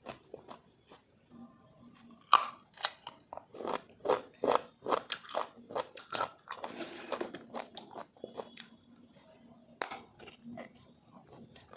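Close-up crunching and chewing of raw sour mango, a person biting and chewing with irregular crisp crunches a few times a second, the loudest a little over two seconds in, and a softer wet stretch around the middle.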